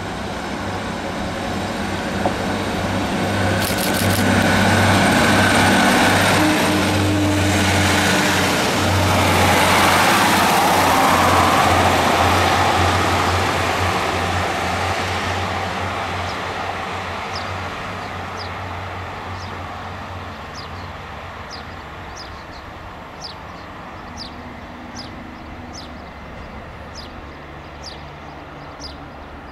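A Class 150 Sprinter diesel multiple unit passing: the steady drone of its underfloor diesel engines with a rushing wheel-on-rail noise. It swells over several seconds and then fades as the unit draws away. In the second half, birds chirp again and again over the fading train.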